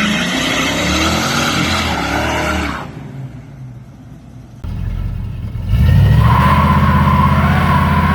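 Car engine sounds: about three seconds of engine revving up and down, a short lull, then an engine starts about five to six seconds in and runs loudly and steadily.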